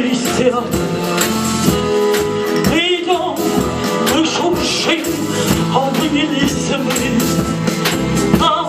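A band playing a song live: a voice singing with vibrato over steady percussion, with a tambourine-like jingle in the beat.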